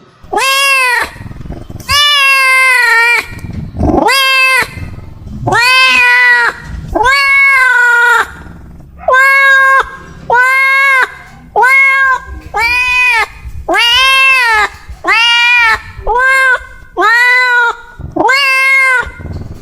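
A domestic cat meowing loudly over and over, about sixteen meows in a row. Each call rises and then falls in pitch, and the calls come shorter and quicker in the second half.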